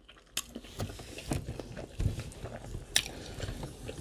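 Close-miked chewing and mouth sounds of a person eating, irregular and wet, with a few sharp clicks.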